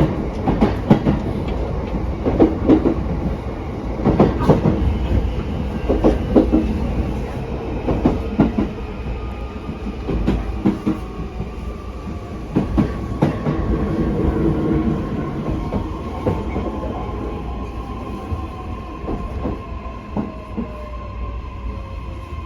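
JR East E131 series 1000-subseries electric train running, heard from inside the car: a low rumble with the wheels clacking over rail joints, the clacks coming less often later on. A motor whine slowly falls in pitch and the running sound grows quieter as the train slows for its next stop.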